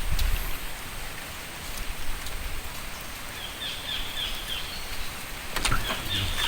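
Steady outdoor hiss of riverside ambience, with a quick run of about five short, high chirps from a bird or insect a little past halfway and a few sharp knocks near the end.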